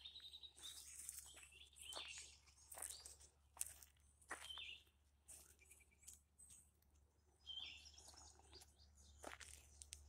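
Small birds calling again and again in short, sharp chirps, several sweeping quickly down in pitch, the scolding of birds annoyed by cats close by. Faint.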